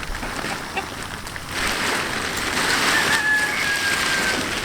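Plastic tarp rustling and crinkling as it is handled, with a single drawn-out chicken call about two and a half seconds in, held for about a second and a half.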